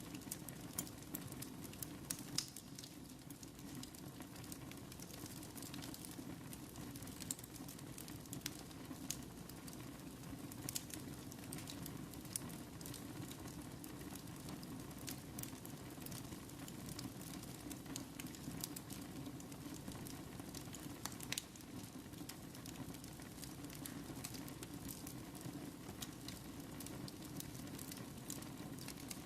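Wood fire burning in a fireplace: a faint, steady low rush with scattered sharp crackles and pops.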